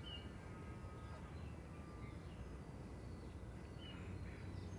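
Faint outdoor ambience: a low steady rumble with a small bird chirping, a short high chirp at the start and another near the end, and a few fainter calls between.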